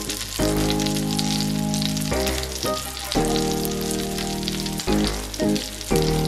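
Panko-crumbed fish fillets sizzling in hot oil in a frying pan, with a steady crackling hiss. Background music of held chords plays under it, changing every second or so.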